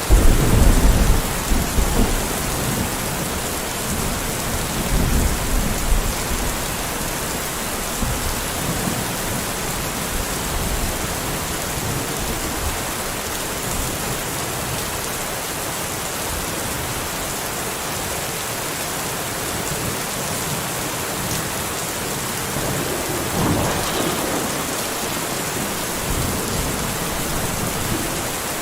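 Steady heavy rain, with low rumbles of thunder: the loudest roll comes at the very start and fades over about two seconds, another follows around five seconds in, and a weaker one comes about twenty-three seconds in.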